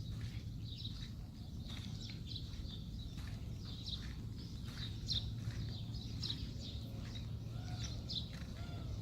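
Small birds chirping over and over, many short high calls throughout, over a steady low hum.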